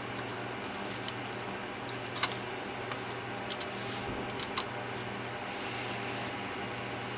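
Scattered small clicks and taps from a cordless phone's plastic charging cradle and its parts being handled during disassembly. The loudest click comes about two seconds in, and two more come close together near the middle. A steady low hum runs underneath.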